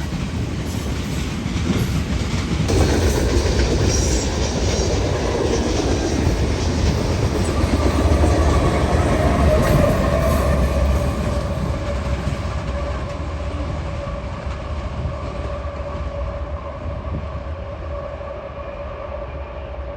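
Union Pacific train passing, a heavy low rumble with wheels clicking over the rails. It is loudest around the middle, where a steady whine joins in, then slowly fades.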